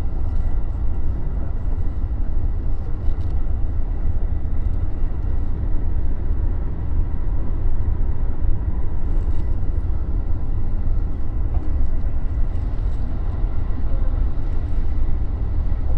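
JR East E233 series 3000 electric train running between stations, heard from inside the leading car: a steady low rumble of wheels on rail and running gear, with no change in level.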